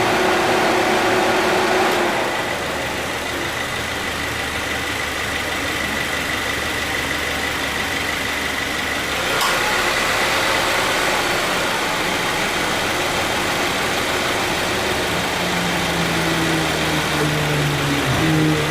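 2014 Subaru Forester idling with the air conditioning on, its AC compressor cycling: the running sound changes about two seconds in, and again with a click and a step up in level about nine seconds in. The compressor starts without abnormal noise, its light-wear start-up noise cured by a line flush, new anti-noise refrigerant oil and a refrigerant recharge.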